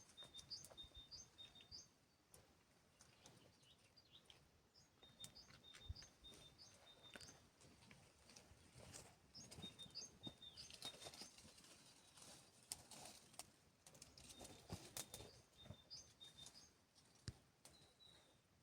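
Faint bird chirping: runs of short, high, repeated notes coming in several groups, with scattered soft clicks and knocks.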